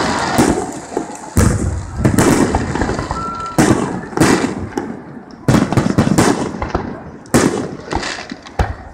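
Fireworks display: about eight loud bangs of bursting shells, one every second or so at uneven intervals, each trailing off before the next.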